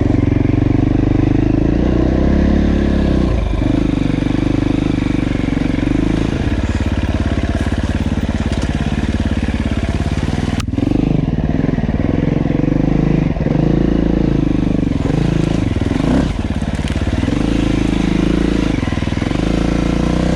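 Dirt bike engine running under way, its pitch rising and dipping repeatedly as the throttle is worked, with a sharp knock about ten and a half seconds in.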